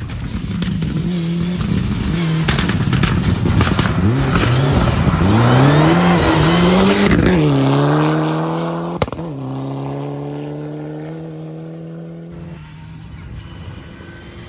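A rally car passing at speed. Its engine note climbs and drops several times as the driver works the throttle and gears, and it is loudest in the middle. A single sharp bang comes about two-thirds of the way through, then the engine holds a steady note as it fades away.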